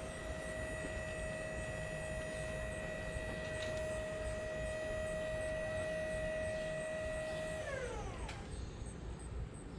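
A motor running at a steady high speed with a steady whine, its pitch sliding down as it winds down about eight seconds in.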